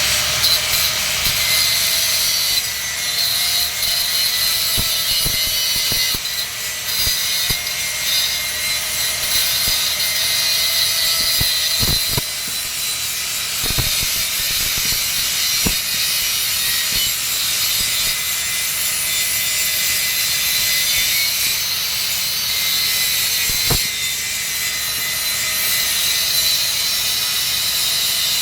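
Electric arc welding on a steel pipe joint: a steady crackling hiss that runs on without a break, with a few sharp clicks.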